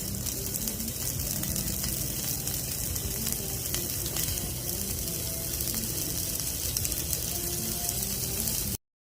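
Grilled meat sizzling: a steady hiss with fine crackles, cutting off abruptly near the end.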